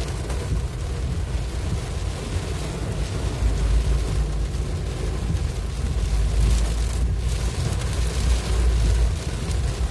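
Heavy rain hissing over the steady deep rumble of a vehicle driving through it, with road and wind noise.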